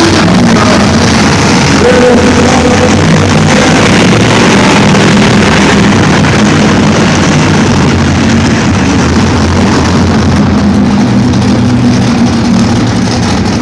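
Monster truck engine running loud and steady, mixed with arena music.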